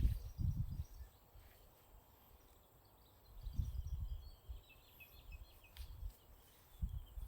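Low rumbling bumps on the microphone, once at the start, once about halfway and once at the end, with a bird chirping faintly in between.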